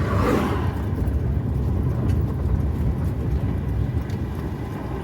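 Steady low rumble of road traffic and a vehicle engine. A vehicle passes close right at the start with a whoosh that falls in pitch, and another approaches near the end.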